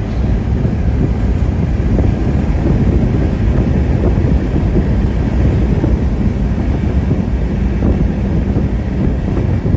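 1966 Pontiac GTO's 389 V8 pulling the car along the road: steady engine, exhaust and road noise, with wind buffeting the microphone.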